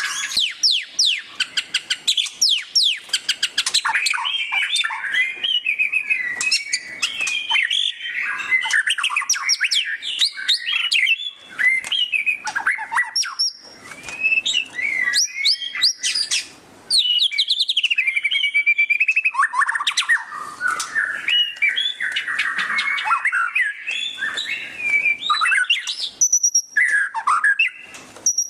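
White-rumped shama singing without a break: a fast, varied stream of whistled notes, quick up-and-down sweeps and rapid chattering trills (the ngeriwik style).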